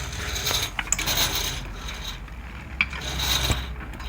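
Cable-stripping machine running: continuous mechanical rubbing and whirring with a few sharp clicks.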